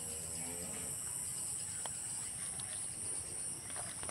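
Steady high-pitched chorus of insects (crickets or cicadas), with a few faint clicks.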